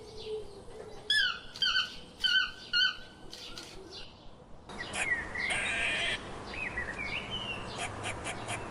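Bird chirping: a quick series of short calls, each falling in pitch. About halfway through, louder background noise sets in with further, longer calls over it.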